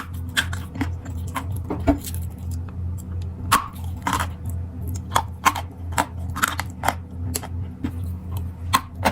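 Sharp crunches and clicks at irregular spacing, two or three a second, over a steady low hum: something brittle being bitten or crushed close to the microphone.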